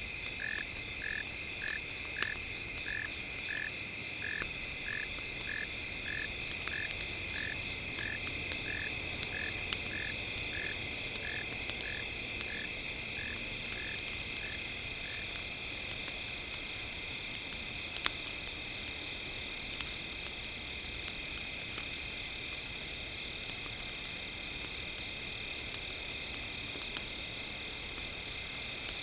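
Campfire crackling in small scattered pops, under steady high ringing tones, with a regular chirping call about one and a half times a second that stops about halfway through.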